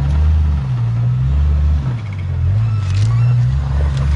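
Jeep engine running at low revs, a deep steady drone whose pitch dips and comes back up about midway through.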